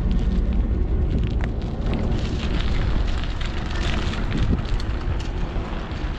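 Skunk Train passing: a heavy, steady low rumble with a faint engine drone underneath.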